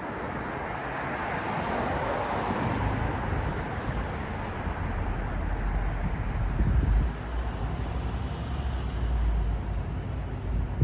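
Street traffic. A passing vehicle swells and fades in the first few seconds, then a low engine rumble from a nearby vehicle sets in about halfway through.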